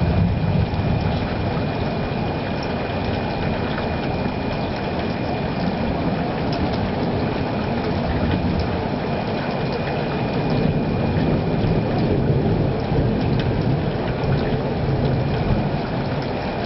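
Steady rushing storm noise outdoors, with no distinct thunderclap.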